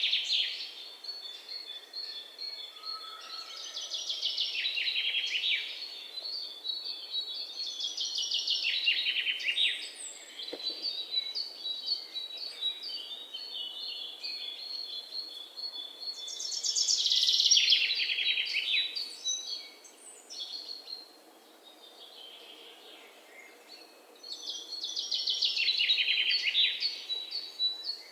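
A songbird singing: about five phrases of fast trills sweeping down in pitch, a few seconds apart, with thin high chirps in between.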